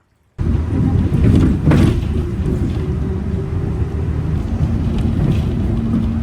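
A vehicle running with a steady low engine rumble, starting abruptly about half a second in, with a brief swish near two seconds.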